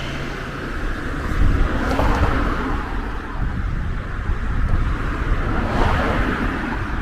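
City road traffic: a steady rumble of cars with two cars passing close by, one about two seconds in and another near the end.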